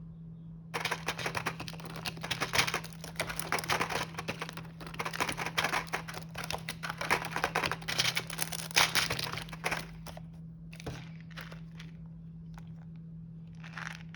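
Snack packaging crinkling densely as it is handled for most of the first ten seconds. A few scattered rustles and taps follow, and the crinkling starts again near the end.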